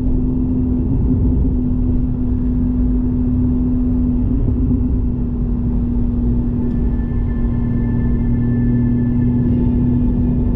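Porsche 718 GTS 4.0's flat-six running through a Kline stainless exhaust with the valves open, holding a steady drone at nearly constant revs. There is a brief wobble in pitch about four seconds in.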